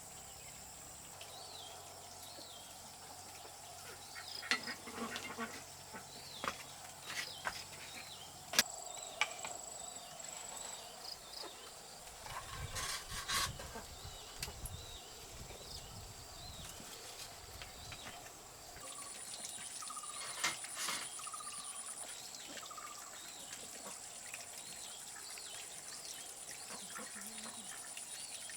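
Outdoor rural ambience: a steady high insect drone with repeated short chirps. Scattered sharp knocks and a short clatter come in the first half.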